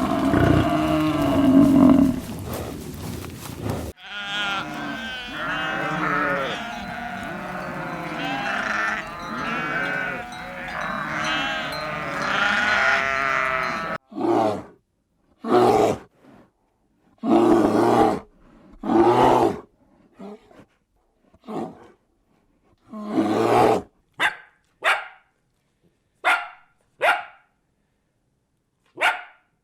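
A series of animal calls from different animals in turn. A low call comes first, then about ten seconds of many animals calling at once with overlapping, wavering calls, then short separate calls with silent gaps between them.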